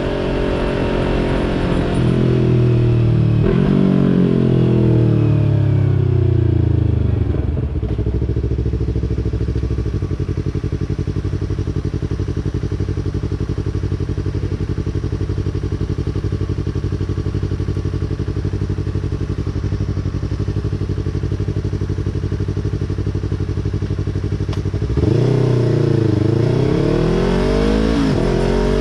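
2020 Yamaha YZF-R3's 321 cc parallel-twin engine through a Yoshimura exhaust. It slows with downshifts, then idles steadily for about 17 seconds. About 25 seconds in, it revs up and pulls away, shifting up twice near the end.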